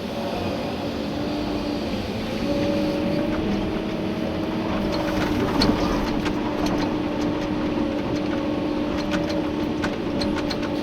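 Komatsu PC290-11 excavator's diesel engine running steadily under digging load, heard from inside the cab; its note steps up slightly and grows louder about two and a half seconds in. From about halfway, a scatter of sharp clicks and knocks as gravel clatters against the bucket.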